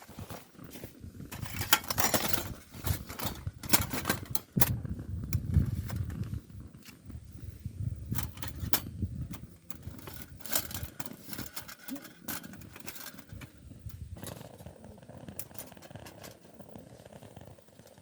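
Irregular clattering, sharp knocks and scraping of hard objects being handled, busier and louder in the first half.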